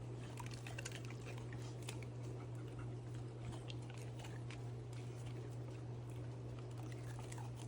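Dogs eating a raw-food breakfast: scattered small chewing, licking and crunching clicks. A steady low hum runs underneath.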